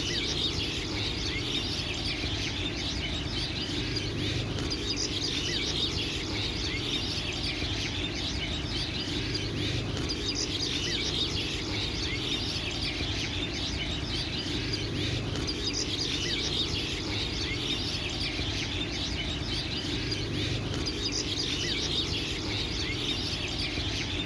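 A dense chorus of small birds chirping and twittering continuously, over a steady low background noise.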